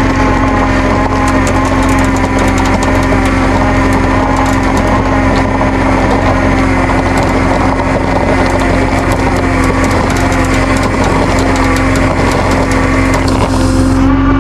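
Truck engine running at a steady speed, a loud, even drone that does not rise or fall.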